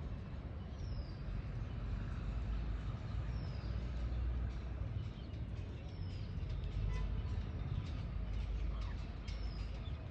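Faint bird calls: a short falling whistle that comes about every two to three seconds, with scattered high chirps, over a steady low rumble.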